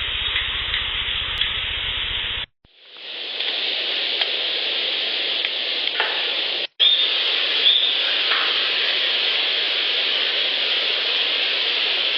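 Heavily amplified outdoor field-recorder playback: a steady loud hiss with a few faint, single knocks or clacks, which the recordist takes for Sasquatch knocks. The recording cuts out and changes twice, the first part with a low buzz underneath.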